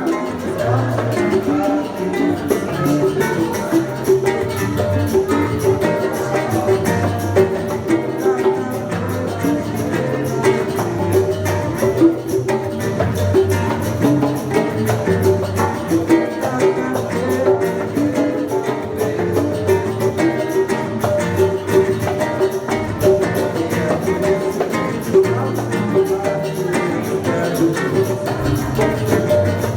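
Live acoustic music: an acoustic guitar playing with bongos keeping a steady beat.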